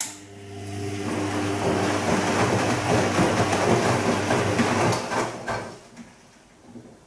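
Bosch Serie 2 Vario Perfect washing machine's drum turning on the gentle Silk wash: a motor hum with the swish and slosh of wet laundry tumbling. It starts suddenly, runs for about five seconds, then stops, the drum's brief turn-and-pause of a delicate cycle.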